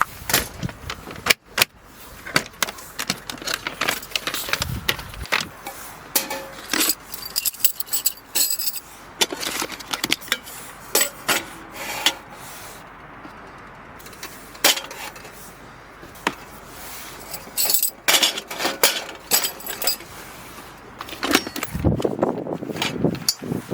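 Many quick, irregular clinks, taps and rattles of small hard objects, camping gear being handled and set down, over a steady hiss.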